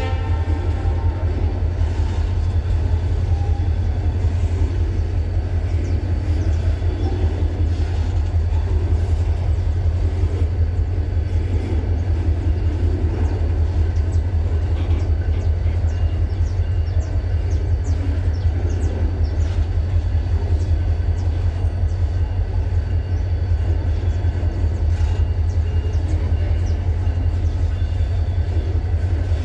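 Diesel locomotive running with a steady low drone and rumble, holding the same level throughout.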